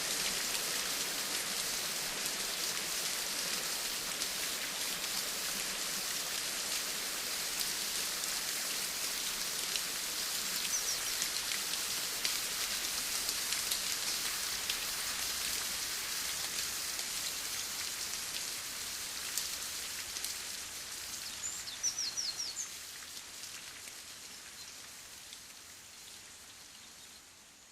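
Steady rain falling, a dense fine patter of drops, with a few short high chirps near the middle and again about three-quarters in. The rain fades down over the last several seconds.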